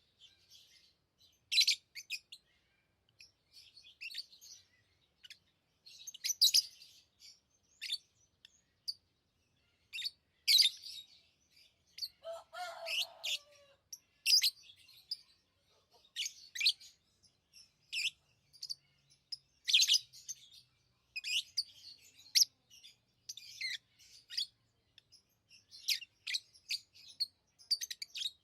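Pet lovebirds chirping: short, high chirps in irregular clusters every second or so, with one lower, drawn-out call about twelve seconds in.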